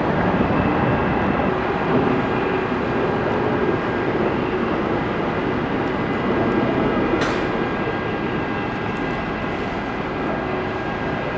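Steady mechanical drone of engines with a few faint steady tones, and one short click about seven seconds in.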